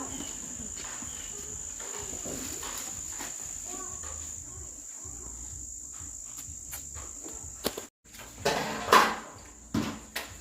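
Steady high-pitched insect chirring. About eight seconds in it breaks off for a moment, then a louder rustling clatter follows.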